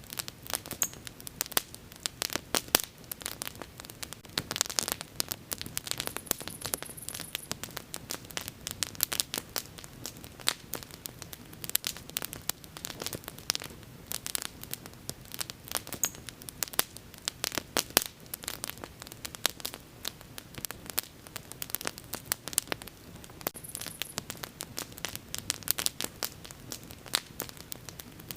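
Wood bonfire burning, with dense irregular crackles and pops of burning wood over a soft low rumble of flame.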